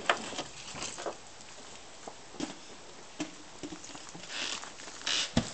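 Firewood being tossed onto a woodpile: scattered knocks and light clatter of wood on wood, with a sharp knock just after the start and another near the end, and brief rustling in between.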